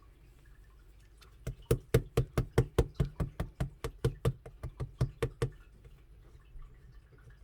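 Chocolate-coloured slime being pressed and poked, giving a quick run of sharp, wet clicking pops, about five a second, that starts a second and a half in and stops about two seconds before the end.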